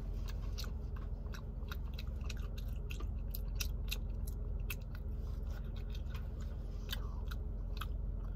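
A person chewing a bite of vegan turkey slice: irregular small mouth clicks, over a steady low hum.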